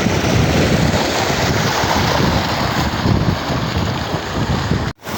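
Loud, rushing wind noise buffeting the microphone, with uneven low gusts; it drops out abruptly for an instant near the end and comes straight back.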